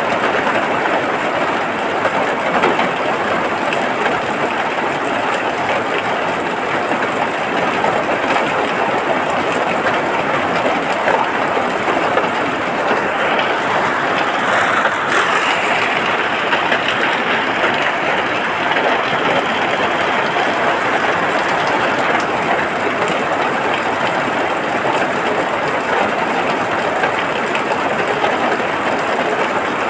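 Steady rain falling, a dense, even hiss that swells slightly about halfway through.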